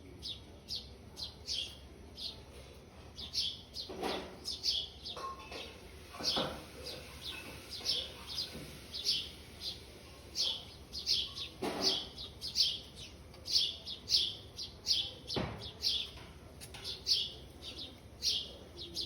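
Small birds chirping: short, high chirps repeated quickly in irregular runs, with four soft knocks scattered through.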